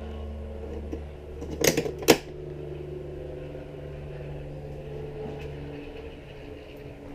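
A steady low motor hum with several held tones, one of which stops about six seconds in. A couple of sharp knocks about two seconds in.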